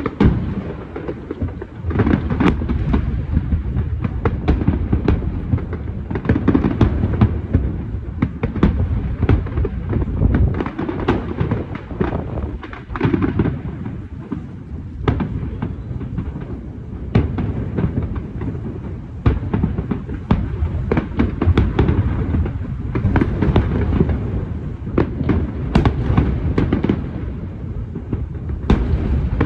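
A large fireworks display: shells bursting with sharp bangs, many overlapping at irregular intervals, over a continuous low rumble of distant explosions and echoes.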